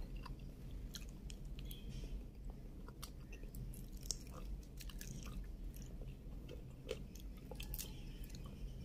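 Close-miked chewing and eating of shrimp: soft mouth sounds with many small, scattered clicks.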